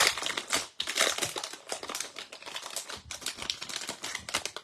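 Plastic trading-card pack wrapper being torn open and crinkled, a dense crackle of small clicks that stops suddenly near the end.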